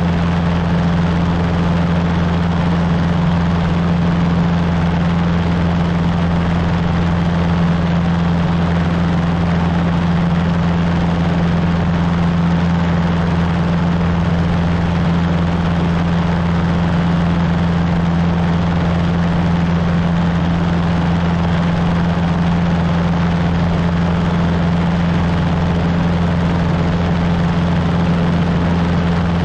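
Cessna 150's four-cylinder Continental O-200 engine and propeller running at a steady, unchanging drone.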